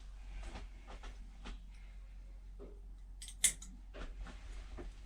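Grooming scissors snipping at a cat's matted fur: a series of faint clicks, with one sharper snip about three and a half seconds in.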